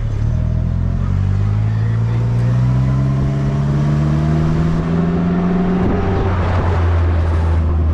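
Polaris Slingshot engine accelerating under the load of a towed motorcycle: the pitch rises steadily for about six seconds, drops suddenly as it shifts up, then holds steady.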